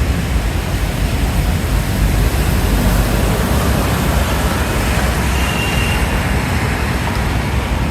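Steady, loud outdoor noise: a flickering low rumble with a hiss spread across the top, and a faint thin high tone for about a second past the middle.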